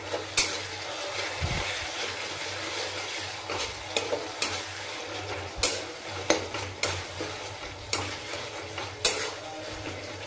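Onion, tomato and green chilli masala with ginger-garlic paste sizzling in oil in a steel kadhai, stirred with a spatula that scrapes and knocks against the pan at irregular intervals. The ginger-garlic paste is being fried to cook off its raw smell.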